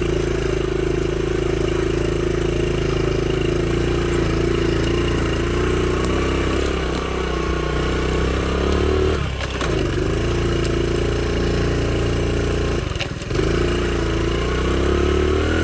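Honda CT70's small single-cylinder four-stroke engine running steadily. Its speed drops briefly twice, about nine and thirteen seconds in, and picks up again each time.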